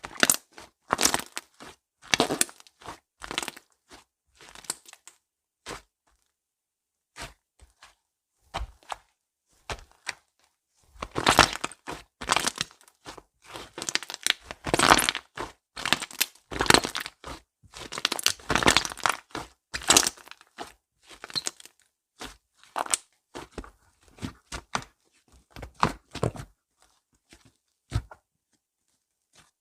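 Slime being squeezed and stretched by hand, giving irregular crackling and popping sounds, busiest in the middle and thinning out toward the end.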